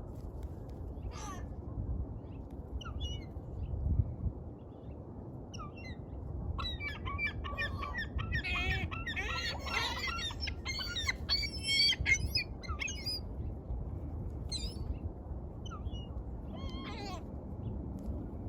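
A flock of gulls calling: scattered squawks at first, building about six seconds in to a dense overlapping chorus of calls for several seconds, then thinning to a few calls near the end. A steady low rumble runs underneath.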